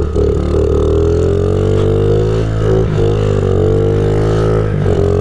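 Honda CRF50 pit bike's small four-stroke single-cylinder engine running at fairly steady revs, with a couple of brief dips.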